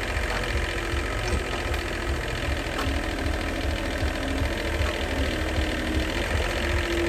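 A motor-driven machine running steadily with a fast, even beat.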